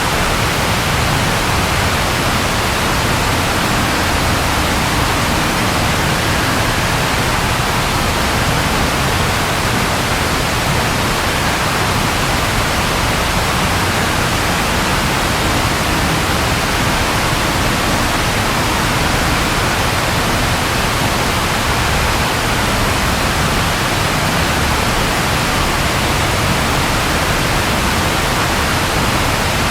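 Rain falling steadily: an even, unbroken hiss with no thunder.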